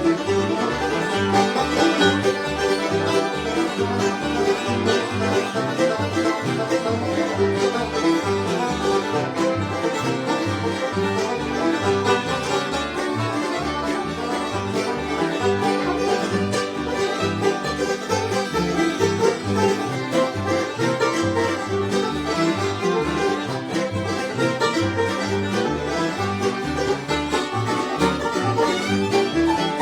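Bluegrass band playing a fast instrumental, with rapid banjo picking over guitar rhythm and a bass line.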